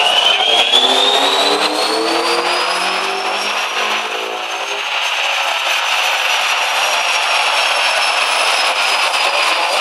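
Volkswagen Jetta's 2.0-litre 6A four-cylinder engine on a rolling road under full-power test, the revs climbing with a high whine that rises alongside them. About five seconds in the engine note drops away and the whine falls slowly as the car and rollers run down.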